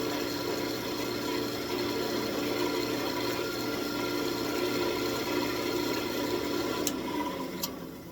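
Wood lathe motor running with a steady hum, fading away near the end, with a couple of faint clicks.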